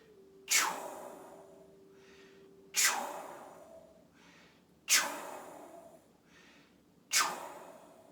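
The Qigong kidney healing sound: a man blowing forced, breathy exhales out through the mouth, four times about two seconds apart. Each one starts sharply and trails off in a hiss, with quieter in-breaths between.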